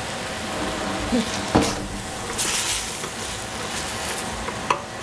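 Swiss chard sizzling in a stainless steel pot while a wooden spatula stirs it, with a sharp knock about a second and a half in and a louder scraping hiss just after the midpoint.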